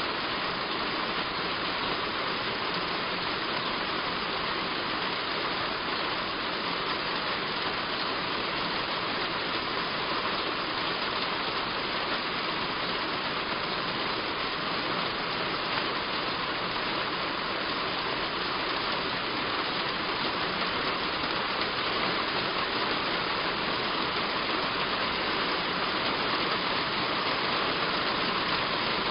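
Heavy rain falling steadily on a roof, an even hiss without a break.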